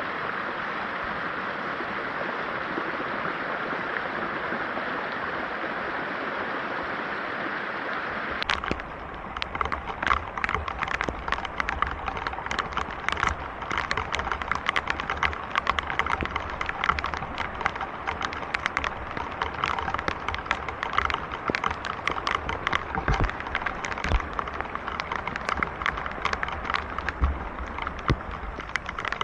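Heavy rain: a steady hiss of falling rain, then about eight seconds in an abrupt change to dense, loud raindrops striking a surface close by, with a low rumble underneath.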